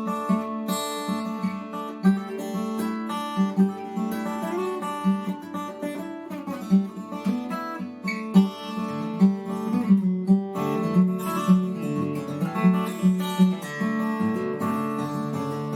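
Seagull S6 acoustic guitar in DADGAD tuning, played as a solo improvisation, with picked and strummed notes ringing over low drone strings.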